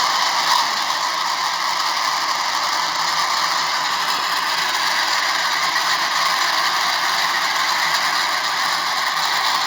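Floodwater rushing, a steady dense noise without pauses or distinct events.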